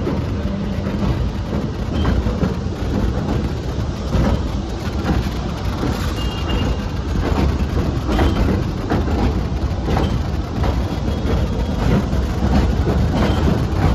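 Passenger train running on the rails: a steady low rumble with a rapid, uneven clatter of the wheels over the track.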